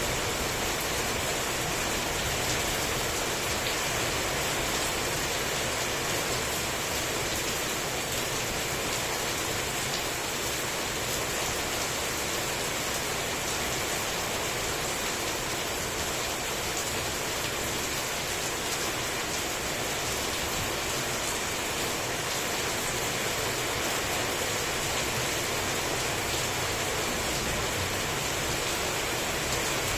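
Heavy rain falling steadily, a dense even hiss of drops on surfaces with faint individual drop ticks, no thunder.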